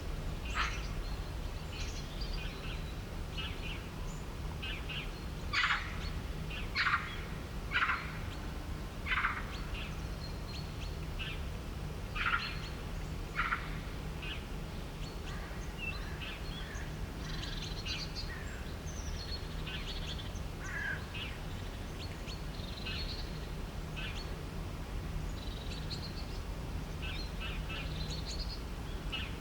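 Birds chirping and calling, with a run of short, louder, sharp calls in the first half. A steady low hum runs underneath.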